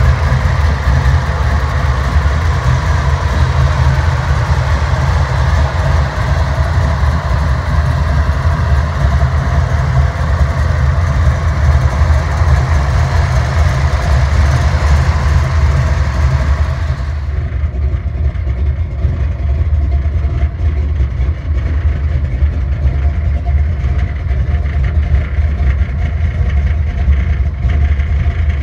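Hot-rodded V8 with tube headers idling steadily, a deep, even exhaust note. About two-thirds of the way through, the sound turns duller as the upper hiss drops away.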